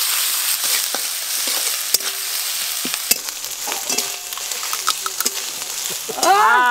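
Sliced onion and ginger-garlic paste frying in mustard oil in a steel wok, a steady sizzle with light clicks as a spatula stirs and scrapes the pan. A brief pitched, voice-like call cuts in near the end.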